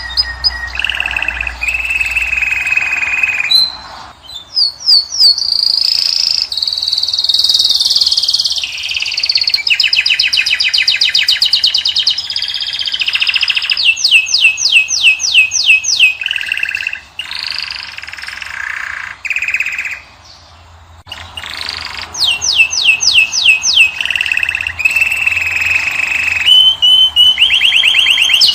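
Finch song: fast rolling trills of rapidly repeated notes alternating with held whistled tones, broken by short pauses about 4 seconds and 20 seconds in.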